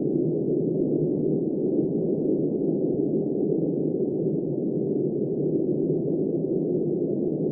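Steady wind noise: an even, muffled rushing with no high hiss and no gusts or changes.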